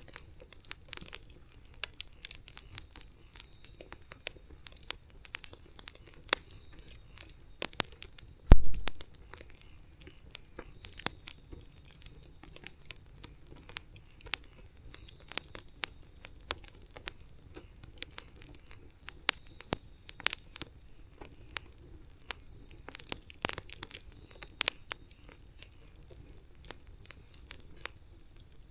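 Wood fire crackling, with irregular sharp pops and snaps from the burning wood. One much louder, deeper thump comes about a third of the way through.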